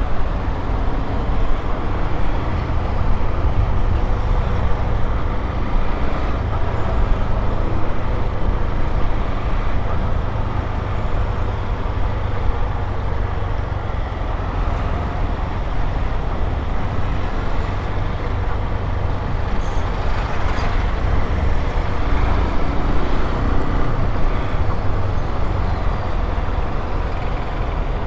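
Honda XRE 190's single-cylinder engine running while the motorcycle is ridden, mixed with steady road and wind noise with a strong low rumble.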